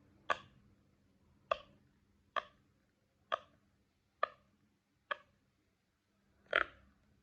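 Pieces of hard candy dropping one at a time into a plastic baby doll tub, seven separate clicks about a second apart, the one near the end the loudest.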